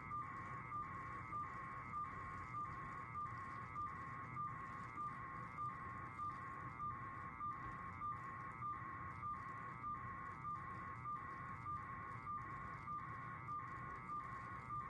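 Electronic warning beeper sounding a steady, evenly repeating tone, a little under two beeps a second.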